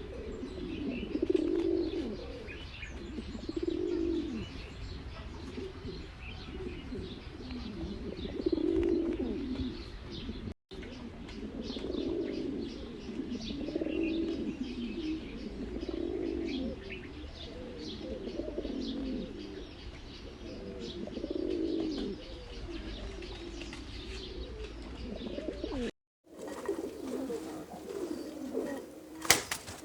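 Several Kashki fancy pigeons cooing over and over in low, swelling calls, with fainter high chirping mixed in. The sound cuts out briefly twice.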